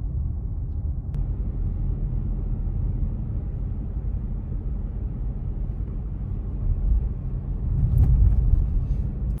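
Steady low rumble outdoors, swelling to its loudest about eight seconds in and then cutting off abruptly.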